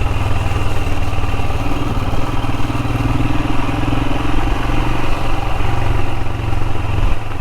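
Royal Enfield Himalayan's single-cylinder engine running steadily under way at low road speed, with only slight changes in pitch.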